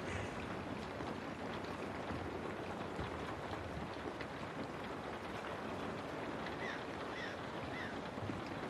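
Steady rain pattering on a window, with three short bird calls in quick succession about two-thirds of the way through.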